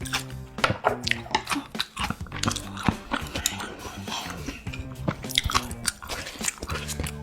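Close-miked mouth sounds of a person chewing and biting food, with many short wet and crunchy clicks, over background music.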